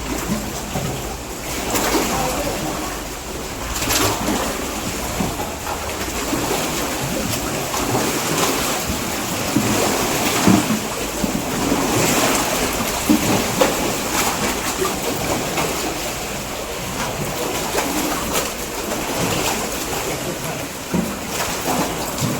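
Steady rush of floodwater, with scattered small splashes and knocks.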